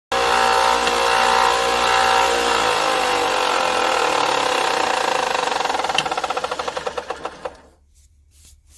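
Electric power-tool motor running at full speed. It is switched off about two and a half seconds in and winds down with a falling whine that turns into slowing pulses, then spins to a stop near the end.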